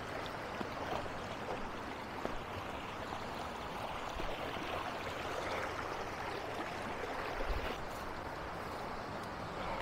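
Rushing water of river rapids, a steady even noise, with a soft low thump about seven and a half seconds in.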